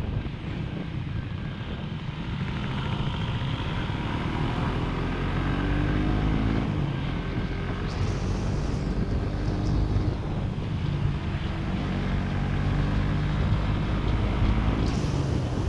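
Motorcycle engine running under way, its pitch rising and falling with the throttle, over low wind rumble on the microphone.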